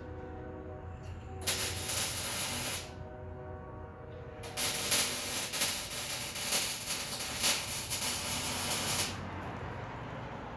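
Two bursts of harsh, crackly hissing from exhaust work on the truck: a short one about a second and a half in, and a longer one of about four and a half seconds starting near the middle. A faint steady hum fills the gaps.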